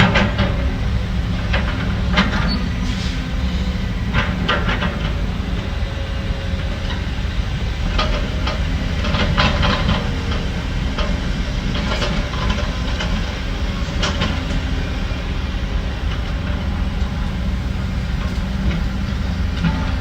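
Heavy diesel earth-moving machinery running steadily with a deep rumble, with irregular metallic clanks and knocks over it every second or two.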